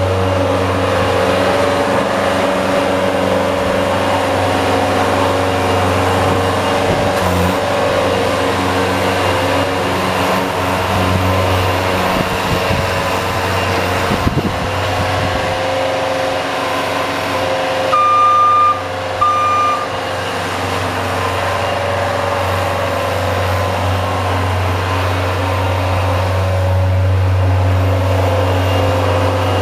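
Engine of the snow-plowing vehicle running steadily under load, with two short high beeps about eighteen seconds in.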